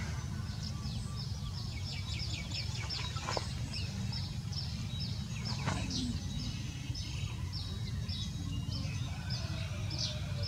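A bird calling in a long, even series of short high chirps, about three a second, with a couple of falling whistles, over a steady low outdoor rumble.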